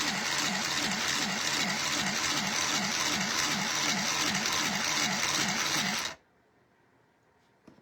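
So Crafty mini sewing machine running and stitching fabric, a steady whir that wavers in pitch about two and a half times a second with each stitch, then stops abruptly about six seconds in. A small click follows near the end.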